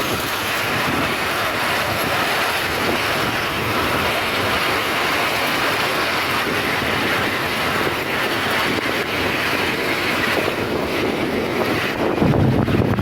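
Miniature railway train running along the track: a steady rolling wheel-on-rail noise. Near the end it turns louder and deeper.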